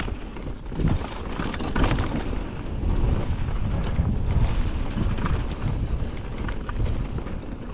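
Wind buffeting the microphone over the rumble and rattle of a mountain bike riding down a rough dirt trail, with scattered short knocks.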